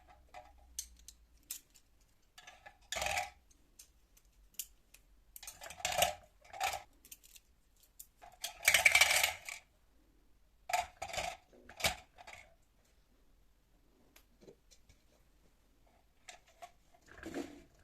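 Scattered clinks, clicks and clatters of small hard objects being handled and set down, with a longer clatter lasting about a second roughly halfway through.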